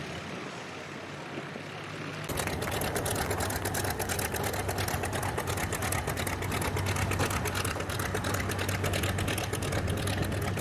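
Piston aircraft engine running close by, a rapid, even train of exhaust pulses over a steady low hum, cutting in suddenly about two seconds in.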